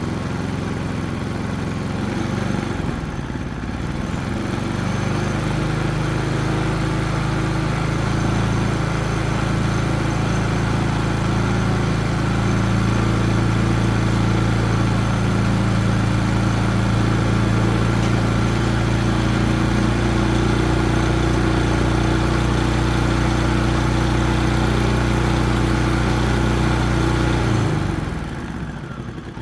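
Predator 3500 generator's small single-cylinder gasoline engine running steadily, then near the end slowing and dying out. It stalls when run off choke, which the owner suspects is a plugged carburetor main jet and emulsion tube.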